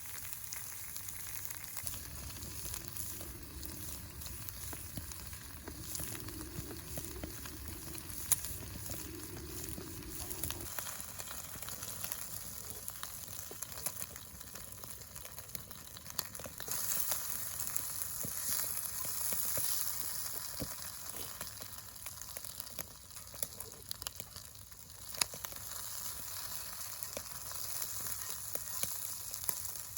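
Wood fire burning in a secondary-combustion wood stove: a steady crackling and hissing of the flames, swelling louder for a few seconds a little past the middle.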